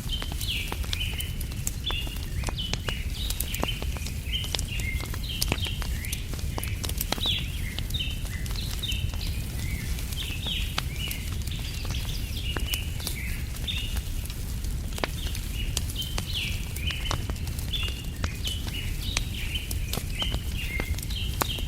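Wood fire crackling, with sharp pops several times a second over a low steady rumble, while small birds chirp busily in the background.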